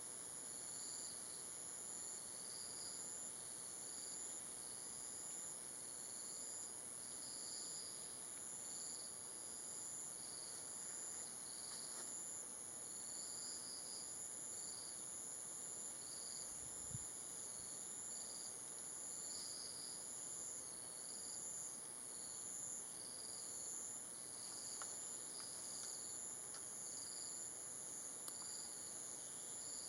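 Faint insect chorus in tropical forest: a steady high-pitched whine with rows of short, rhythmic chirps repeating over it. A single soft low thump comes about halfway through.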